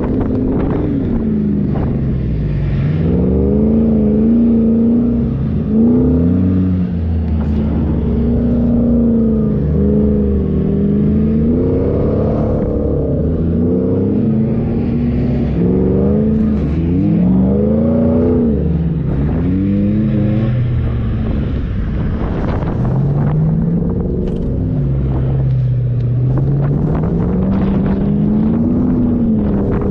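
A 4x4's engine revving up and down over and over, its pitch rising and falling every second or two over a steady low rumble.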